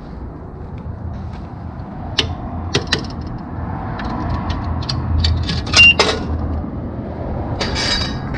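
Scattered clicks and clinks with a short electronic beep a little past halfway, from working the pay station at a self-serve car wash, over a low steady rumble.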